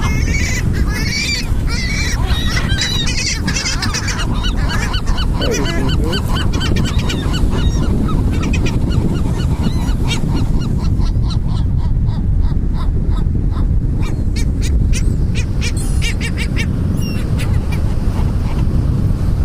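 A flock of seagulls squawking and calling, with many overlapping calls in the first half and fewer, shorter ones later. A steady low rumble runs underneath.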